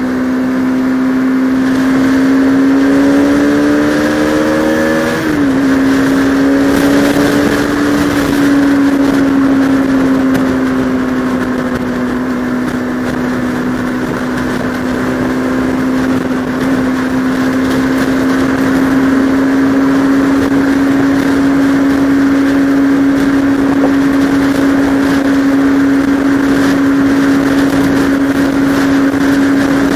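Motorcycle engine under way, heard through a helmet camera with wind noise: the engine note climbs for about five seconds, drops sharply as with a gear change, then holds steady while cruising.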